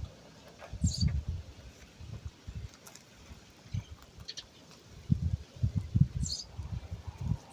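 A small bird chirps twice, briefly and high, over irregular low muffled thuds and scuffling.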